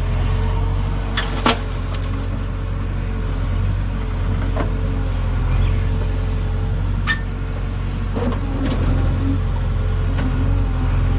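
JCB 3DX backhoe loader's diesel engine running steadily with a wavering mid tone, with several sharp clanks, the loudest about a second and a half in.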